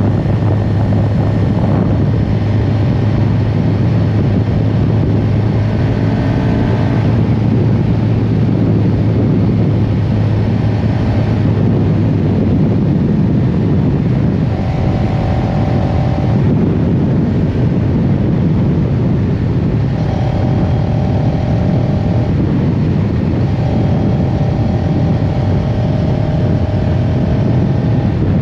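CFMoto CLX-700 Heritage's parallel-twin engine running steadily while riding, mixed with a rush of wind noise. A higher engine tone comes and goes several times.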